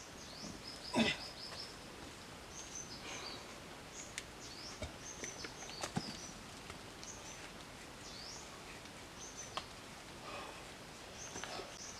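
Birds chirping with many short, high, quick notes, some sweeping downward. Over a faint steady outdoor hiss, with a few sharp clicks and a louder knock about a second in.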